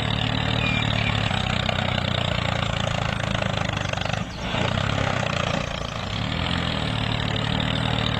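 Engine running steadily at an even idle, with a brief drop in level about four seconds in.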